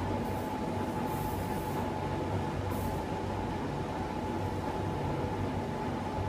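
Steady drone of workshop machinery with a constant hum, broken by several short bursts of hiss from an air spray gun being triggered during car painting.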